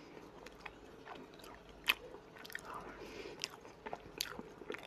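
Faint, close-up chewing and wet mouth clicks of a person eating a spoonful of kholodets (meat aspic), with a sharper click about two seconds in.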